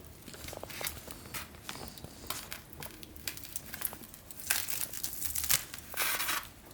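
Crinkling and rustling of wrapping being handled and pulled open, in irregular bursts, loudest in two longer stretches from about four and a half seconds in.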